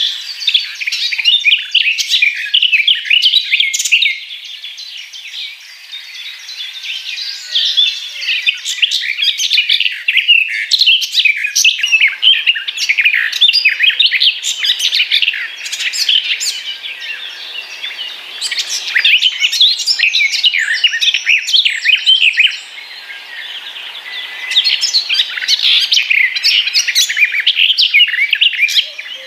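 A chorus of many small birds chirping and singing at once: a dense, unbroken tangle of quick, high chirps and short whistled notes, easing off briefly a few times before filling in again.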